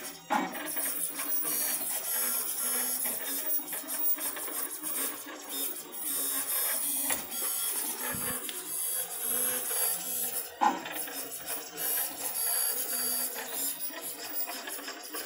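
CraftBot FDM 3D printer running, its stepper motors whirring and buzzing in shifting patterns as the head lays down plastic. A sharper, louder sound stands out just after the start and again about ten seconds later, matching the noise the uploader hears each time the bed lowers for a new layer.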